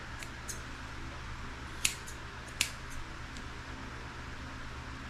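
Grooming scissors snipping mats and tangles out of a dog's beard: a few sharp snips, the loudest about two seconds in and another just under a second later, over a steady low hum.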